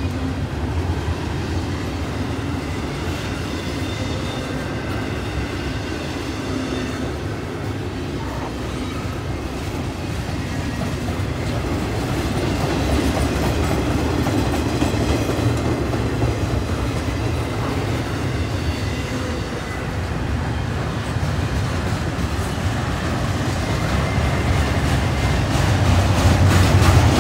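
Intermodal freight train's double-stack well cars and trailer cars rolling past close by, a steady rumble with wheels clacking over the rail joints, growing louder near the end.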